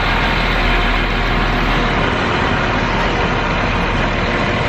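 Diesel train engine idling, a loud steady rumble with a faint hum.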